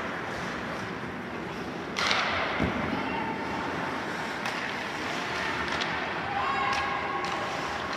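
Ice hockey play in a rink: steady arena ambience with a sharp knock about two seconds in, typical of a puck or stick hitting the ice or boards, and faint calls late on.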